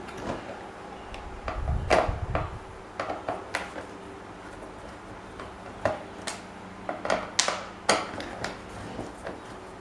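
Irregular clicks and knocks of metal fan parts being handled and set down, with a heavier thump about two seconds in.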